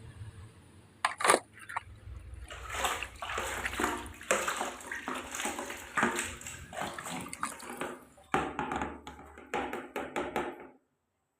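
Water sloshing and splashing in irregular bursts as muddy toy vehicles are washed by hand in a tub of water, stopping abruptly near the end. A sharp click about a second in.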